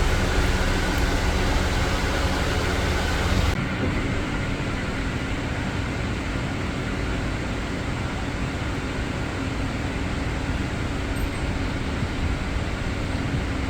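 Steady rain falling, then after a cut about three and a half seconds in, the steady road noise of a car driving, heard from inside.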